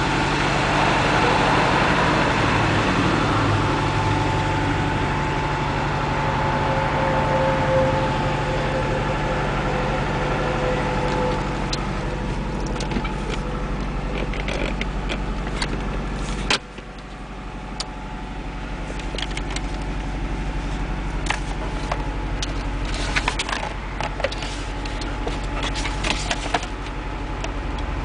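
Turbocharged Honda H23A four-cylinder engine idling steadily after a cold start. About two-thirds of the way through, the sound drops suddenly in level, and scattered sharp clicks follow.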